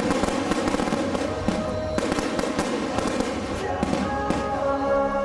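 Fireworks crackling and popping in quick succession, over music that comes through more clearly near the end.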